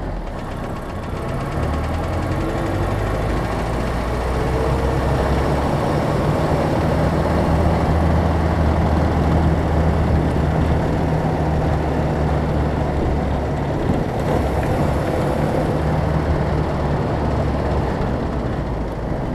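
1968 Land Rover Series IIA's engine running steadily while the vehicle drives along, a continuous low hum that grows a little louder about two seconds in.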